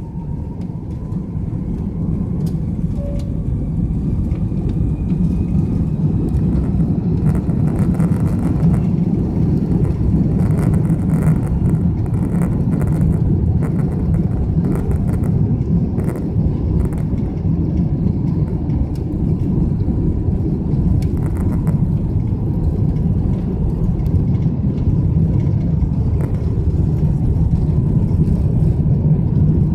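Rolls-Royce Trent 772 turbofans of an Airbus A330-200 spooling up for takeoff, heard from inside the cabin. The rumble grows louder over the first few seconds with a faint rising whine, then holds steady and loud through the takeoff roll. Bursts of clicking rattles come partway through.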